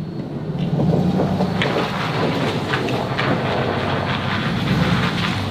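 Engine of a snow-clearing vehicle running steadily at work, with scattered ticks and crackles over the low hum.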